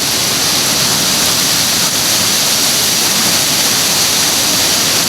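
Hurricane wind with driving rain, a loud, steady rush of noise.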